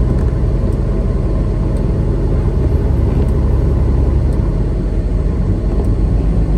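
Semi truck running steadily at highway speed, heard from inside the cab: a low, even diesel engine drone under road rumble.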